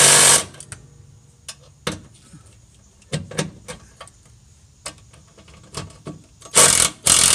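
Small impact driver hammering in short bursts on the 12mm sway bar bushing bolts, which are too tight to break loose. There is one burst right at the start and two near the end, with scattered clicks and knocks of tools between them.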